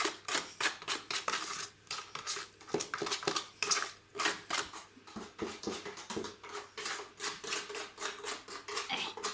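Hand-stirring mortar mix after water has been added: a quick, irregular run of scraping strokes of a tool against the mix and its container.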